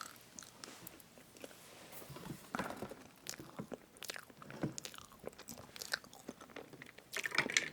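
Close-miked chewing of soft strawberry fresh-cream cake: wet mouth sounds with scattered small clicks.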